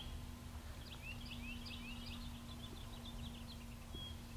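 Faint birdsong: a quick run of short rising chirps, over a steady low hum.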